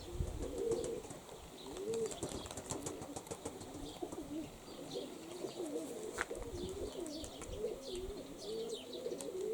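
Domestic pigeons cooing continuously in a low, wavering warble, with high chirps from small birds over it. Wind gusts rumble on the microphone now and then.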